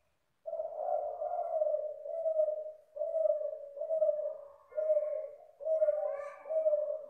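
Spotted dove (derkuku) cooing: a run of about eight low, rounded coo notes in close succession, starting about half a second in and carrying on without a break.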